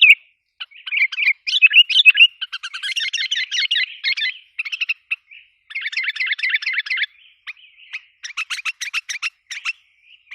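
Sooty-headed bulbul (kutilang) lure calls: agitated chattering with fast rattling trills, then a quick run of sharp repeated notes about eight seconds in.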